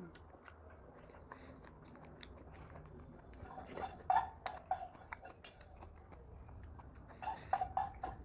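Eating sounds: chewing, with two spells of quick clicks and clatter against dishes, about three and a half and seven seconds in.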